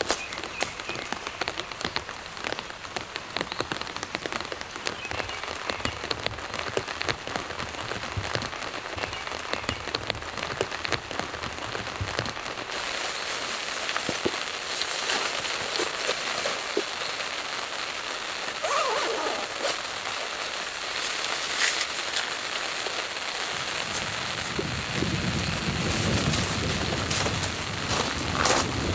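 Steady rain falling on surfaces, an even hiss dotted with many sharp individual drop hits, growing fuller and a little louder about halfway through.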